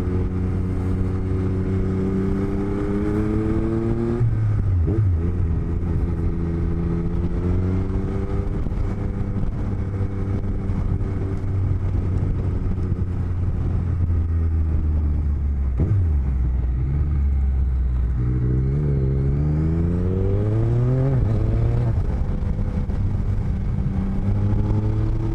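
Motorcycle engine heard from the rider's helmet while riding. The revs climb and then drop sharply at a gear change about four seconds in, hold steady for a long stretch, fall again, and climb and drop once more near the end.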